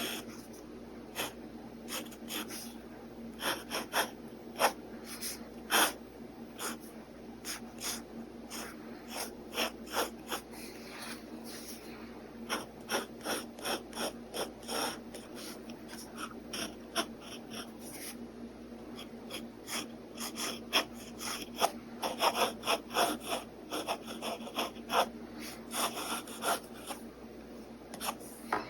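Pen nib scratching across paper in quick, irregular sketching strokes, some in rapid flurries, over a faint steady hum.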